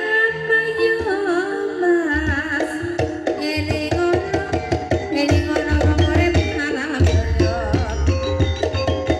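Ebeg accompaniment music: drums keep a dense beat under steady struck pitched notes. A singer's wavering voice is heard over them in the first few seconds, and the drumming grows heavier from about two seconds in.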